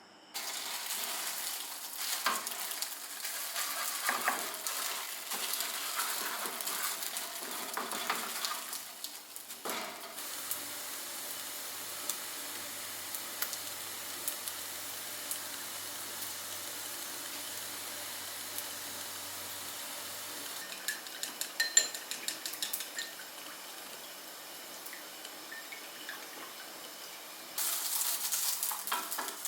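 Food sizzling in a frying pan, with scattered clicks and taps of utensils against the pan. The sizzle changes level abruptly a couple of times.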